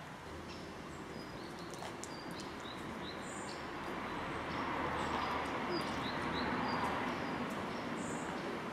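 Small birds chirping in short, repeated high calls over a steady outdoor background rush that swells for a few seconds in the middle.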